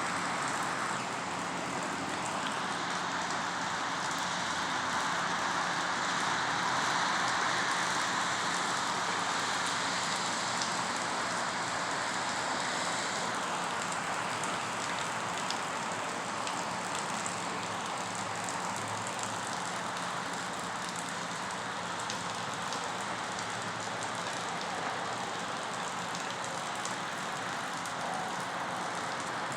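Heavy rain falling steadily: a dense, even hiss of downpour with scattered sharper drop taps.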